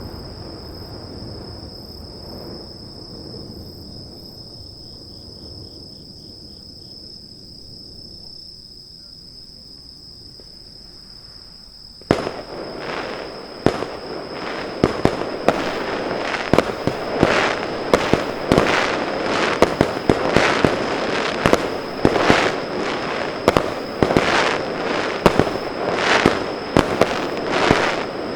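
Fireworks display: the echoing rumble of earlier shell bursts dies away, then about twelve seconds in a rapid barrage of aerial shell bangs and crackling begins. The barrage goes on at several reports a second.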